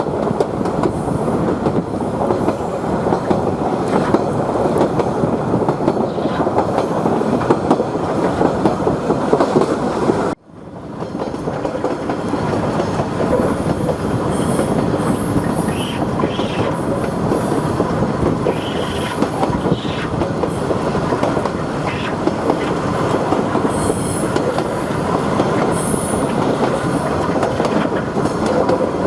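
Queensland Rail 2000 class railcar running along the line: a steady rumble with the clickety-clack of wheels over the rail joints, and a few short high wheel squeals in the second half. The sound drops out suddenly about ten seconds in and swells back up.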